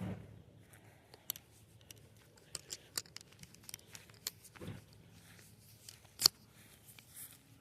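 Hand pruning shears snipping in an irregular series of sharp clicks, the loudest about six seconds in.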